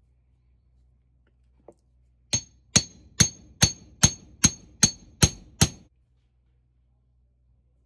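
Nine evenly spaced hammer blows on metal, about two and a half a second and starting about two seconds in, each with a short metallic ring. They are struck to drive a seized rubber suspension cone off its steel trumpet on a classic Mini, and the cone does not shift.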